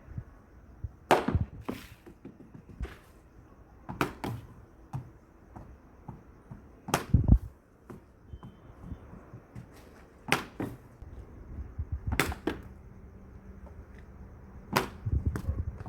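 Cricket ball knocks: about a dozen sharp hits, several in close pairs a fraction of a second apart, as the ball is bowled and struck by the bat.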